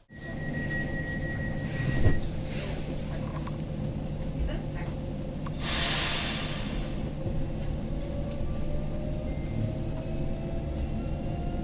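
Inside a 36WED electric multiple unit, the running gear rumbles steadily. A steady tone sounds for about a second, a thump comes about two seconds in, and a short burst of air hiss follows around six seconds. Then the traction drive's whine rises slowly in pitch as the train starts to pull away.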